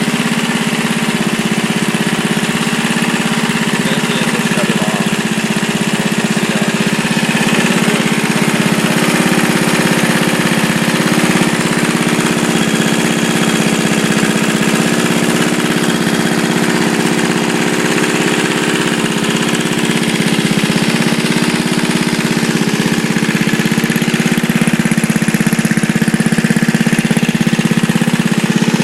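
Turbocharged Briggs & Stratton lawnmower engine running steadily and loudly, getting a little louder near the end.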